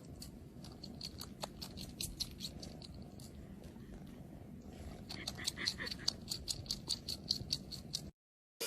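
Domestic cat purring steadily close to the microphone, with two runs of quick light ticks over the purr.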